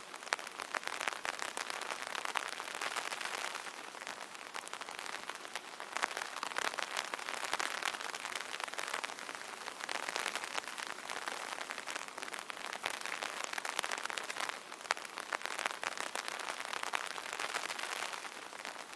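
Light rain falling on an umbrella: a dense, steady stream of small drop hits, swelling slightly now and then.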